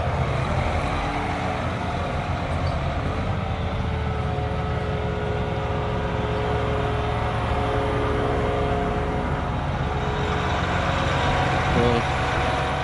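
Tractor engine running steadily while moving a rolling basket, with a short higher tone about a second before the end.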